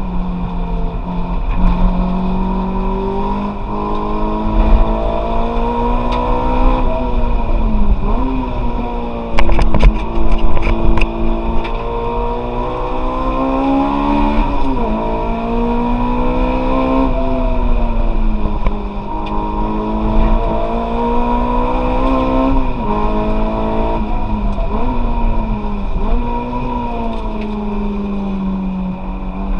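Honda S2000's four-cylinder engine heard from inside the cabin under hard track driving, its revs climbing and dropping again and again through gear changes and corners. A few sharp knocks come about ten seconds in.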